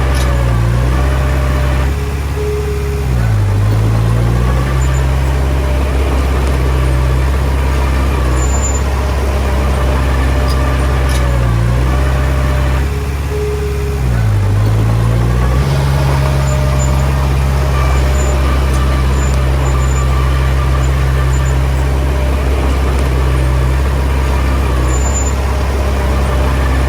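Heavy diesel engine running loudly. Its speed sags and then recovers about two seconds in and again about thirteen to fifteen seconds in, as when the machine takes on load.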